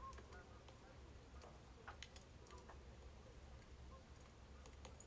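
Birch firewood crackling as it burns: faint, irregular pops and snaps over a low steady hum.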